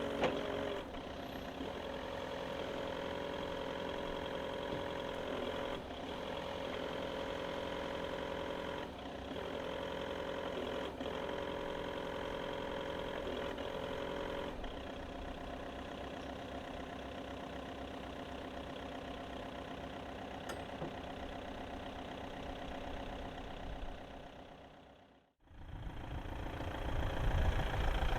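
Diesel engine of a Jungheinrich DFG 425s forklift (Volkswagen-built) running steadily, with a steady whine over it for roughly the first half. About 25 seconds in the sound cuts out abruptly, then returns as a louder, deeper engine rumble.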